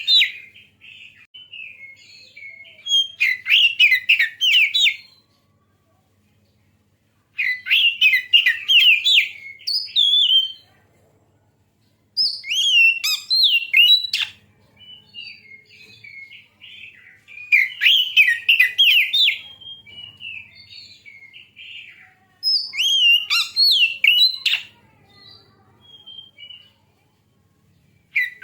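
Oriental magpie-robin (kacer) singing: loud phrases of rapid, sweeping chirps and whistles, each lasting two or three seconds, repeated about five times with pauses of a second or two between them and softer notes in some of the gaps.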